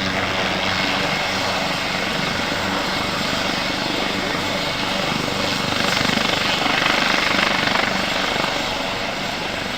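Helicopter running close by: a steady engine and rotor noise with a fast chop, growing a little louder about six to eight seconds in.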